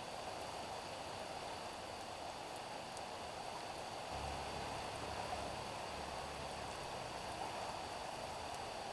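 Steady rain falling on a street, an even hiss. A low rumble joins about halfway through and lasts a few seconds.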